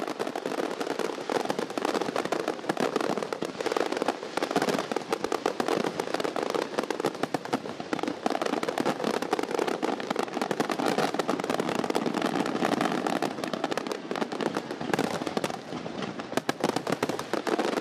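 A fireworks display: dense, unbroken crackling and popping, many sharp reports every second.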